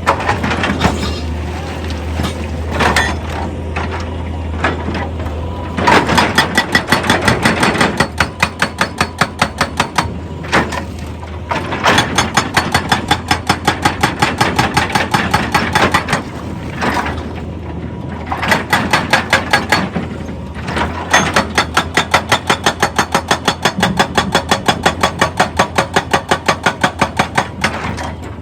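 Excavator-mounted hydraulic rock breaker hammering in several long bursts of rapid blows, about five a second, with short pauses between bursts, over the excavator's steady engine hum.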